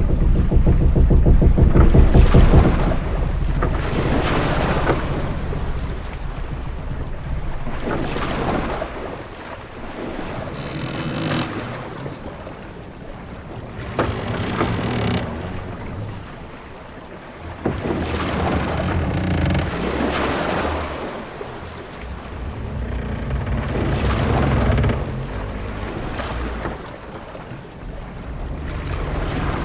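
Sea ambience aboard a ship: waves rise and wash in swells every few seconds over a low rumble of wind and water, with a couple of sharp knocks near the middle.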